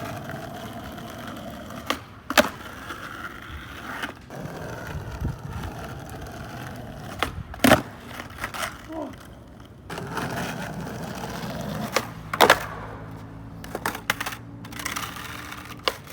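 Skateboard wheels rolling on pavement, broken by sharp pops and landings of the board during flat-ground tricks. The loudest cracks come about two and a half, eight and twelve and a half seconds in, with smaller clacks between.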